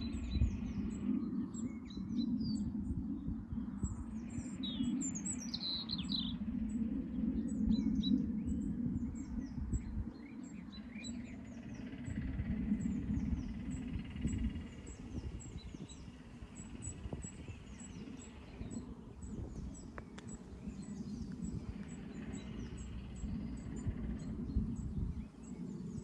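Small birds chirping and twittering in quick, high notes, livelier in the first half, over a low rumble that swells and fades.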